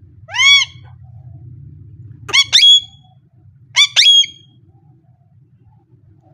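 Pet parrot calling three times: a loud call that rises and falls in pitch about half a second in, then two shorter, sharper calls about two and four seconds in.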